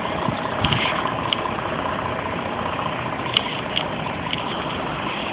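Fire truck engine idling steadily, with a few short sharp clicks.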